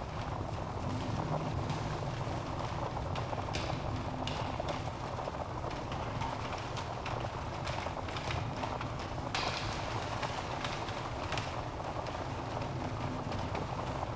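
Wood fire burning in a fireplace: a steady low rumble of flames with frequent irregular crackles and pops from the logs, a burst of louder crackling about nine seconds in.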